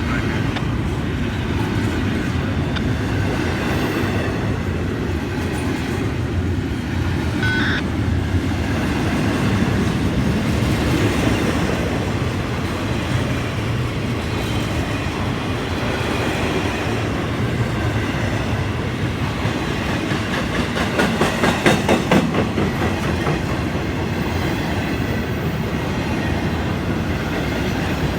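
Florida East Coast freight train's cars rolling past, a steady rumble of steel wheels on rail, going slowly with the brakes applied a little. About three-quarters of the way through, a quick run of rhythmic clicks comes as wheels cross a rail joint.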